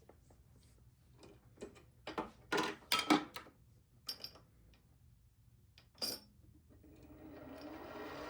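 Clicks and knocks of work being set up on a metal lathe, with a few louder clacks near the middle, then the lathe starting up and running, getting steadily louder toward the end.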